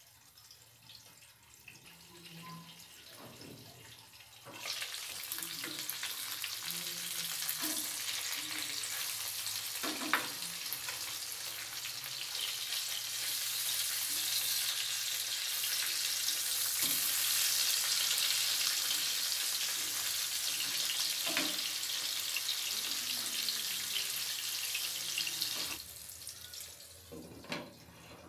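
Eggplant rings and egg batter sizzling in oil in a frying pan. The sizzle is muffled under a glass lid at first, turns loud once the lid is lifted about five seconds in, and drops back near the end when the lid goes back on, with a few light clicks along the way.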